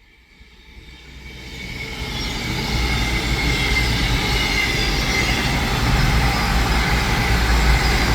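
A CrossCountry Voyager diesel-electric multiple unit (a Class 220 and a Class 221 coupled together) comes through the station. Its underfloor diesel engines and wheels on the rails grow louder over the first few seconds, then hold a steady loud rumble. A faint high squeal runs over it, slowly falling in pitch.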